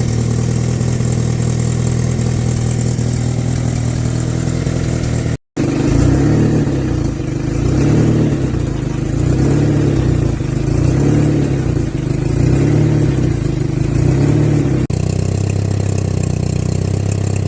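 Acura Integra DC4's Honda B-series four-cylinder engine running at its first startup: first a steady idle, then, after a cut, the engine note repeatedly rising and falling about every second and a half, then steady again after another cut.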